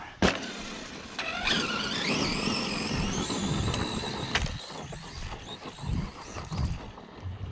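Arrma Outcast 4S RC truck driving off: its brushless motor gives a whine that rises and wavers in pitch with the throttle for about three seconds, over tyre and drivetrain noise. A sharp click comes just before it.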